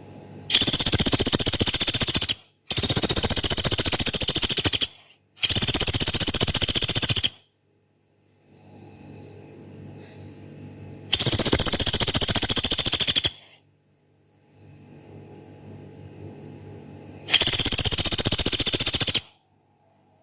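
Pelatuk beras, a small pygmy woodpecker, giving long, harsh, very fast rattling trills: five high-pitched bursts of about two seconds each, the first three close together and the last two spaced several seconds apart.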